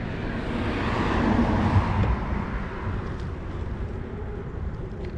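Rushing wind and tyre noise on the microphone of a moving mountain bike, with a heavy low rumble; the rush swells and then fades about one to two seconds in.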